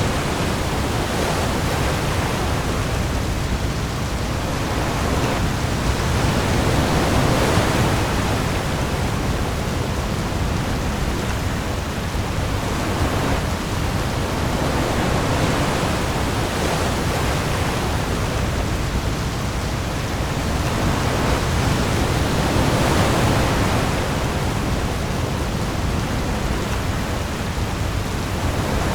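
Heavy rain pouring onto the open sea, a dense steady hiss with a deep rumble beneath, swelling and easing every few seconds as waves roll through.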